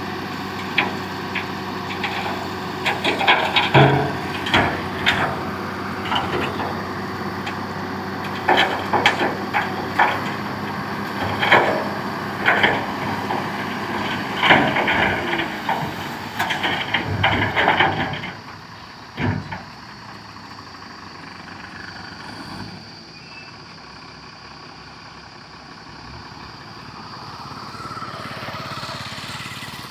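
Heavy diesel machinery running steadily, with a run of sharp knocks and clanks. About 18 seconds in the clanking stops and the sound drops to a quieter, steady engine hum.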